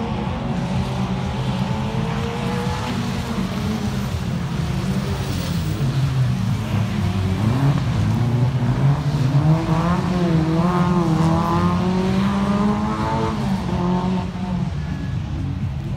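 Small classic cars' engines revving as they drive a tight barrier course, the engine note rising and falling repeatedly and loudest about ten to thirteen seconds in.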